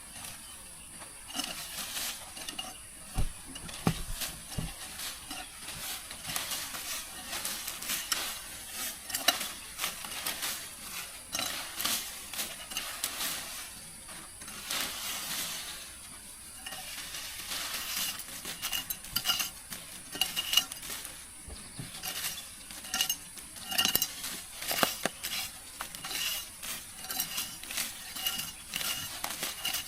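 Repeated clinks, knocks and scrapes of utensils against cookware, over a steady high hiss.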